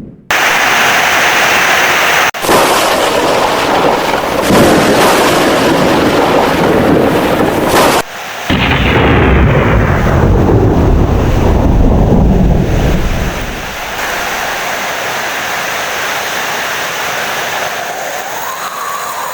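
Heavy rain with rumbling thunder. The sound cuts out abruptly a few times, about two and eight seconds in. The heaviest rumble comes after the second break, then it settles into steadier, quieter rain.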